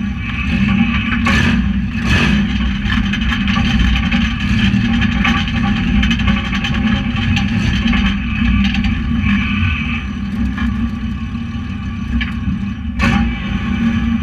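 Tuff truck engine running hard under racing load, heard from inside the cab. Three sharp bangs cut through it, two close together near the start and one near the end, as the truck and its body take knocks.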